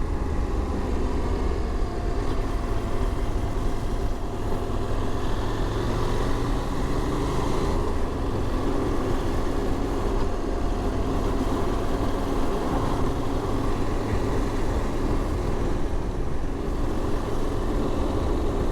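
KTM motorcycle engine running steadily under way, mixed with wind and road noise, heard through an in-helmet microphone.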